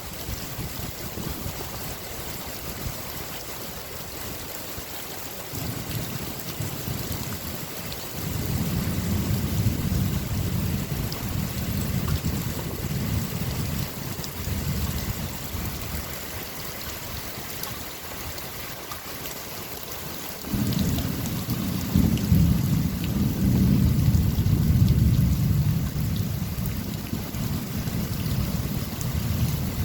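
Steady patter of rain with long rolling thunder rumbles. One builds about a quarter of the way in, and a louder one breaks in suddenly about two-thirds through and keeps rolling.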